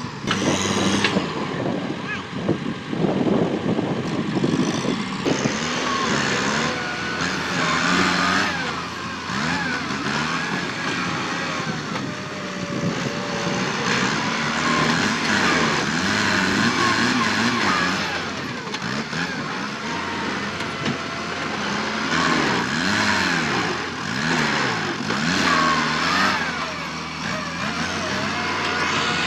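Kubota tractor's diesel engine working hard while pushing down brush, its pitch rising and falling over and over as the load changes.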